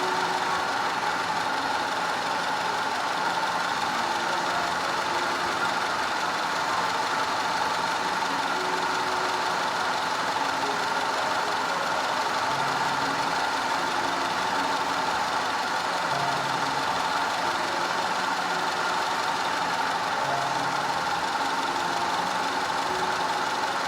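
Audi 2.0 TFSI turbocharged four-cylinder petrol engine idling steadily.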